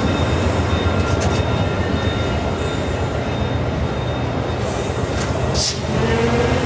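VIA Rail LRC passenger coaches rolling past at low speed: a steady rumble of wheels on rail with faint squeal tones, and one brief high-pitched sound about five and a half seconds in.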